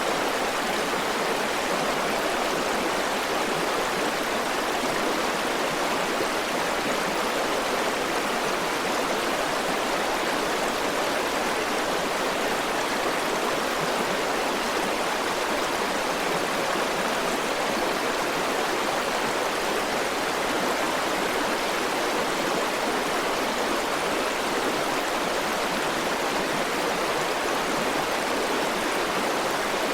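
River water flowing steadily over rocks in a continuous, even rush with no changes.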